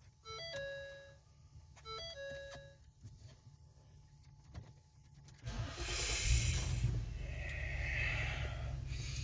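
Dashboard warning chime sounding twice, a short higher note falling to a longer lower one, then the 2013 Ford Taurus's V6 engine is cranked with the key and fires right up about five and a half seconds in, settling into a steady idle.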